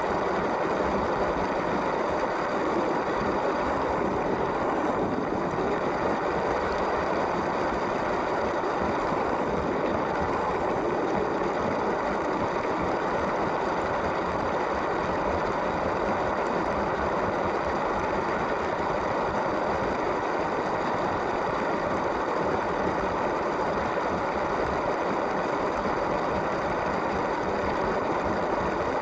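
LEGO train's small electric motor running and its plastic wheels rolling along plastic track, heard from a camera riding on the train: a steady, even rumble and whir.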